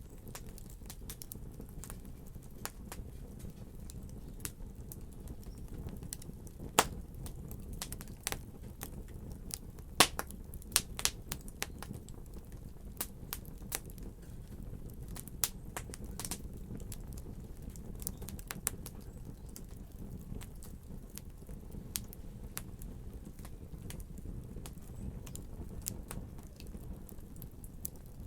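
Wood fire crackling in a fireplace: a steady low rush of burning with irregular sharp pops and snaps, a few much louder pops in the first half.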